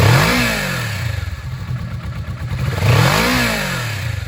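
2018 Kawasaki Vulcan S's 650 cc parallel-twin engine revved twice from idle, each blip rising and falling in pitch, about three seconds apart.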